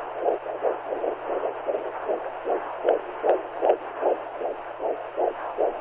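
Womb sound for soothing a newborn: a rhythmic swishing pulse like a heartbeat heard from inside the uterus, about three beats a second, over a faint steady low hum.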